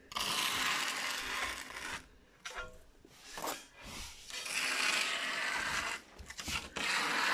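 Long scraping, rubbing strokes of a tool on a hard building surface, in three stretches of a couple of seconds each, with a few short knocks between them.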